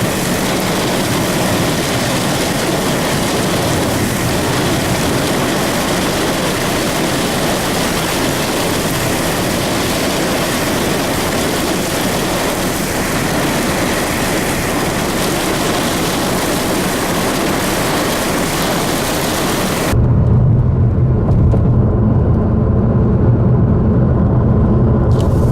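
Steady rushing noise of gusty storm wind. About twenty seconds in it cuts off suddenly to a steady low rumble.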